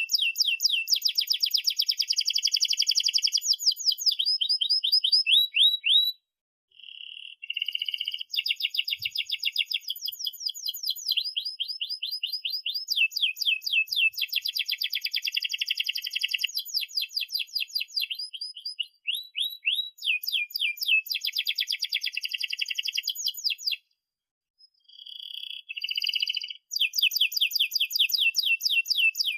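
Domestic canary singing long rolling trills: fast runs of repeated high chirping notes, changing tempo from phrase to phrase. The song breaks off briefly about six seconds in and again near 24 seconds.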